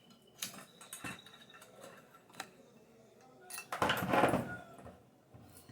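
Small plastic and metal fan parts being handled and fitted by hand during reassembly of a Mallory fan motor: scattered clicks and knocks, with a louder clatter about four seconds in.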